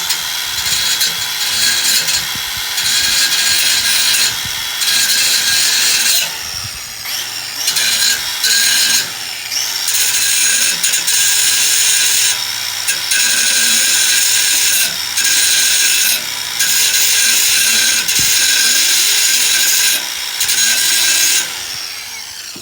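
Power grinder grinding a galvanized steel bracket, stripping the zinc coating down to bare metal so a weld will take. The grinding runs steadily with several brief breaks where the wheel comes off the work, then winds down near the end.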